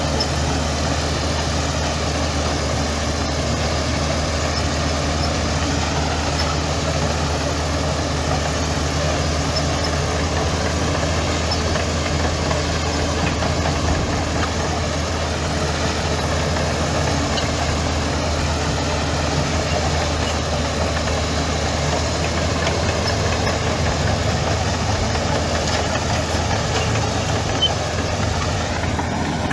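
Heavy diesel engine of earthmoving machinery running steadily, with a low, even hum.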